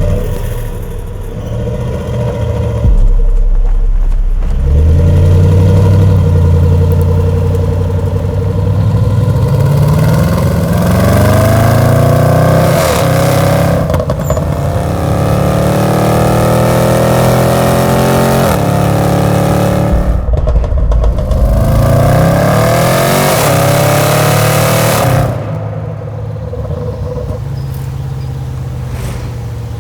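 Car engine accelerating hard, its note climbing steadily in pitch through several gears with sudden drops at each upshift. After the last pull it eases back to a steadier, quieter running note near the end.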